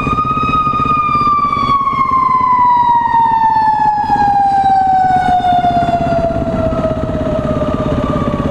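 Fire engine siren sounding one long tone that rises slightly, then falls slowly and steadily in pitch. A motorcycle engine runs underneath.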